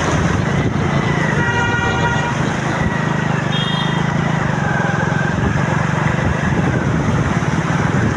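Vehicle horns honking in road traffic: one horn blast about a second and a half in, lasting about a second, then a short higher beep, over a steady engine rumble and rushing noise.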